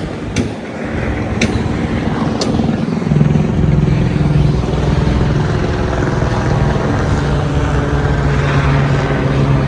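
An engine running with a steady hum that swells about three seconds in and stays loud. A few sharp clicks come about once a second in the first couple of seconds.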